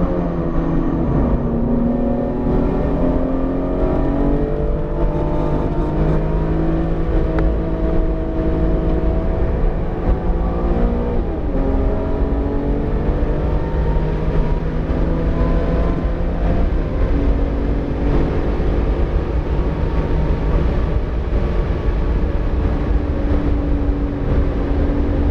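BMW E46 M3's S54 straight-six pulling under acceleration on a freshly built engine in break-in, its pitch climbing steadily, dipping briefly at a gear change about 11 seconds in, then rising again. A heavy low rumble runs underneath.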